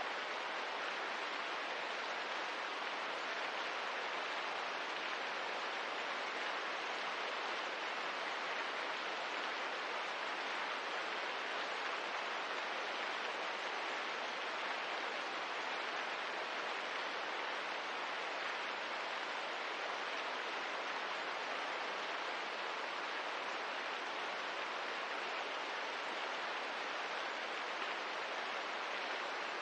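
Steady rain ambience: an even, unbroken hiss of rainfall with no single drops or fire crackles standing out.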